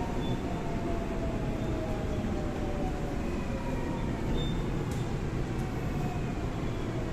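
Seoul subway 4000-series train with Alstom GTO VVVF traction inverters braking into a station: the inverter whine falls slowly in pitch over the first few seconds over a steady wheel and car rumble.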